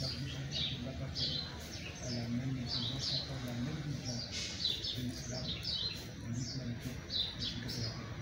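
A small bird chirping repeatedly: short, high, downward-sliding chirps, one or two a second and often in pairs.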